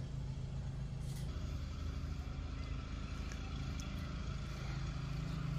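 Lawn mower engine running at a steady drone.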